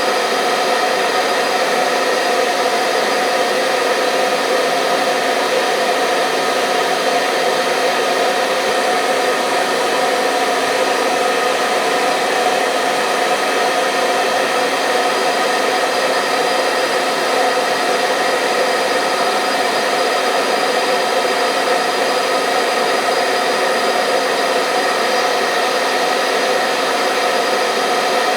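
Hair dryer running steadily at a constant speed, a continuous rushing blow with a steady motor hum, used as white noise to lull a baby to sleep.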